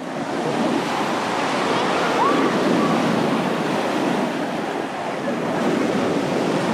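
Sea waves washing onto a beach, a steady surf noise, with faint voices of people in the distance.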